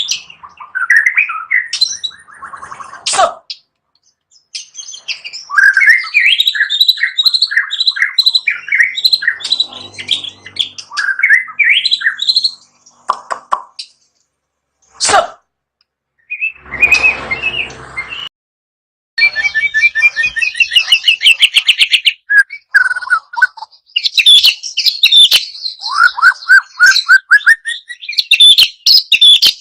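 White-rumped shama singing a loud, varied song of whistled phrases, rapid runs of repeated notes and trills, broken by short pauses. A brief noisy burst comes about two-thirds of the way through.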